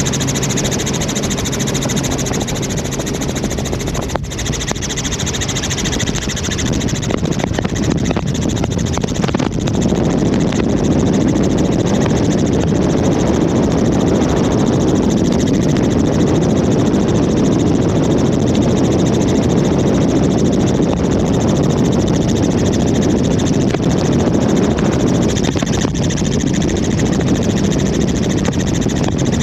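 Helicopter in flight heard from aboard: a loud, steady drone of engine and rotor. A low hum in it fades out over the first several seconds, and the noise grows a little louder about a third of the way in.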